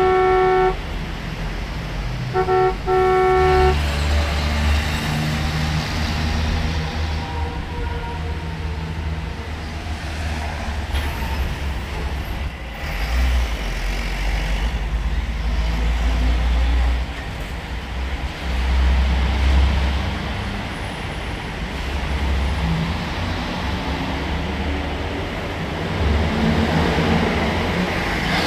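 Two honks of a vehicle horn in the first few seconds, then a low, steady engine rumble with no words over it.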